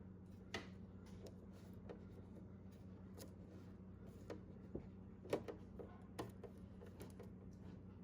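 Faint scattered taps, clicks and rustles of duct tape being wrapped and pressed around a plastic refrigerator compartment lock, the sharpest click about five and a half seconds in, over a steady low hum.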